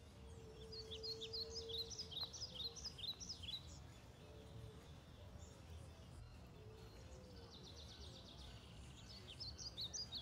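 Birds chirping in quick runs of high notes over a steady low outdoor rumble; the chirping fills the first few seconds, eases off, and comes back near the end.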